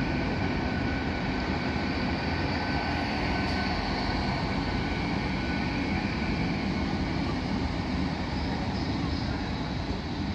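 Hitachi Class 800 intercity train rolling slowly past: a steady low rumble of the running gear on the rails, with a constant high whine over it.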